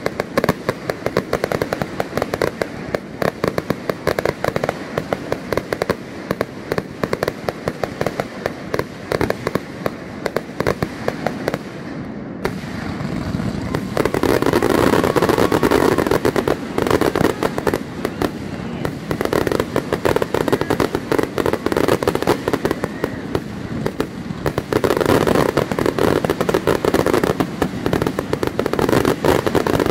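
Consumer fireworks finale firing as a dense, continuous barrage of rapid shots and bursts. It swells louder and fuller about fourteen seconds in, then comes in waves.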